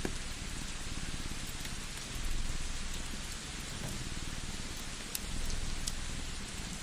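Layered fireside ambience: a steady rain-like hiss over a cat's fast, low purring, with two sharp crackles from a wood fire near the end. Low rumbles swell about two seconds in and again about five seconds in.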